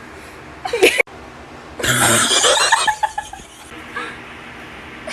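A person's voice laughing in short bursts: a brief one cut off abruptly about a second in, then a louder burst around two seconds in.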